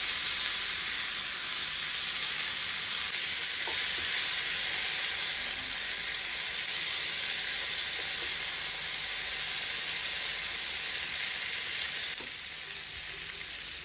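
Paneer tikka skewers frying in mustard oil and butter on a hot nonstick tawa, a steady sizzling hiss that eases slightly near the end.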